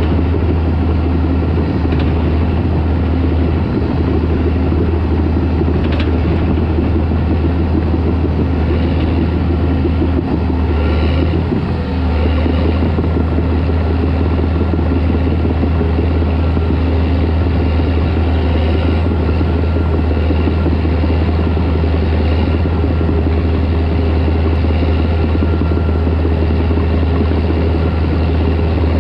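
Caterpillar D4 crawler dozer's diesel engine running steadily under work, with a strong, even low drone that dips briefly a little over ten seconds in.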